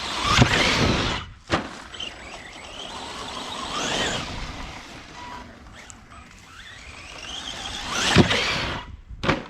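Electric RC truck motor whining as it speeds up and slows down three times, with a couple of sharp knocks from the truck hitting something.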